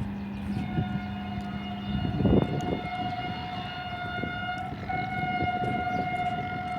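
Locomotive horn on an HGMU-30 diesel-electric locomotive held as one long steady note, over the low rumble of the approaching train. A heavy low thump comes about two seconds in.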